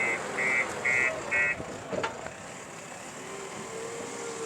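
Reversing alarm on a JCB 3DX backhoe loader beeping about twice a second, four beeps that stop about a second and a half in, over the machine's diesel engine running.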